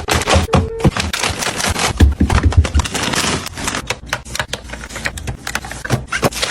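Rapid clicking, tapping and clattering with some scraping: hard objects, typical of plastic containers and lids, being handled and set down.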